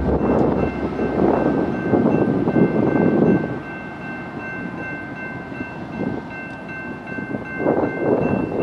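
Freight train of covered hopper cars rolling past a grade crossing: wheels and cars rumbling over the rails, louder in the first three seconds and again near the end. Over it a steady high ringing tone from the crossing signal bell runs throughout.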